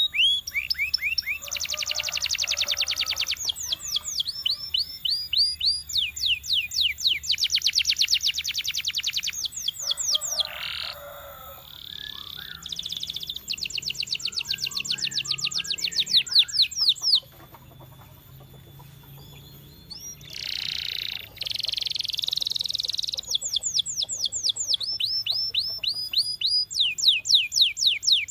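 Domestic canary singing a long song of rapid trills, each phrase a fast run of identical sweeping notes, one phrase after another. There is a short pause a little past two-thirds of the way through.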